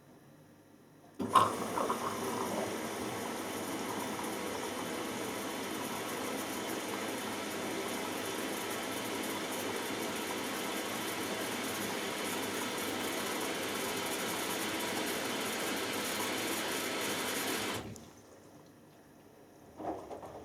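Hoover Dynamic Next washing machine taking in water: the inlet valve opens suddenly about a second in, and water rushes steadily into the machine to fill the drum. The rush cuts off abruptly when the valve closes near the end, followed by a few faint soft knocks.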